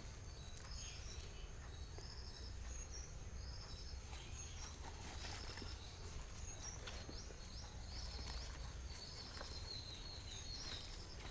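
Small bird chirping over and over, a short high note about every half second to second, over a low steady outdoor rumble with a few faint clicks.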